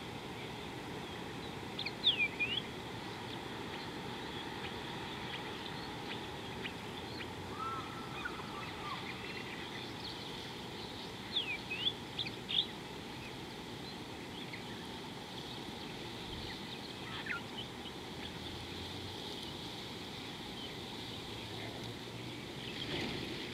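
Wild birds giving short, sharp chirping calls, a quick cluster about two seconds in and another around eleven to twelve seconds, with a few fainter calls between, over a steady outdoor background hiss.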